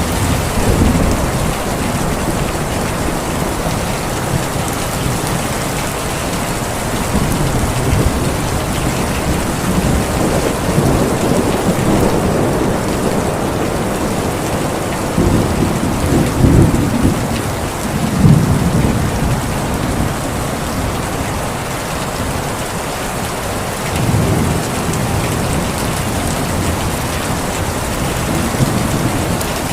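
Steady heavy rain falling, with thunder rolling in low several times, the loudest peals a little past the middle.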